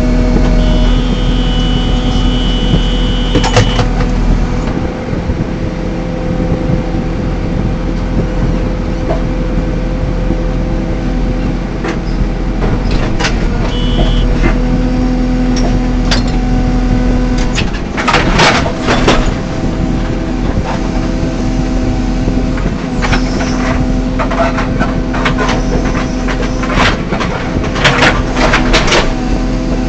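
JCB 3CX backhoe loader's diesel engine running steadily, with short metal clanks and knocks from the digging gear. The knocks come thickest about eighteen seconds in and again over the last several seconds.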